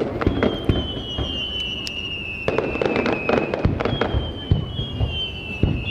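Fireworks display with rapid bangs and crackling from shells bursting. Long whistles twice, each slowly falling in pitch over about three seconds.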